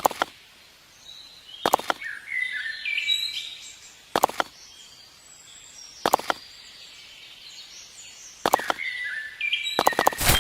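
Birds chirping in short falling notes, with a sharp knock about every two seconds and a quick run of clicks near the end.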